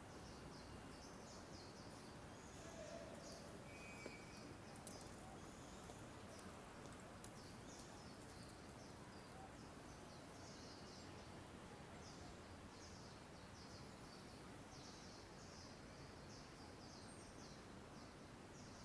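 Faint, repeated short high-pitched chirps of small birds over a steady low ambient hum.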